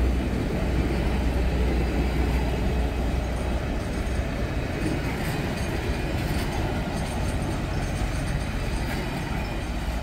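Passenger cars of a train rolling past on the track: a steady rumble of wheels on rail that eases slightly as the cars go by.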